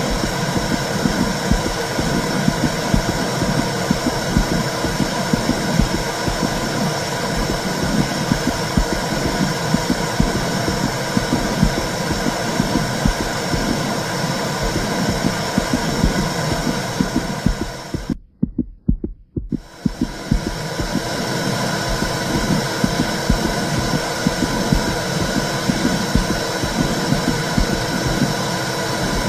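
Womb sound: a steady whooshing noise with a low, rapid throbbing pulse like a heartbeat heard from inside the body. It drops out almost completely for about a second and a half past the middle, then resumes unchanged.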